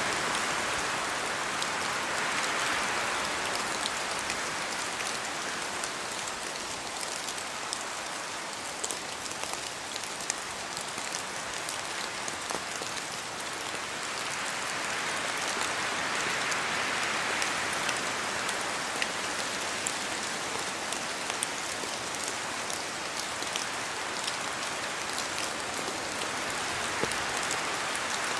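Steady rain falling on forest trees, with many sharp drips landing from the leaves. The hiss swells twice, near the start and about halfway through, as the wind picks up.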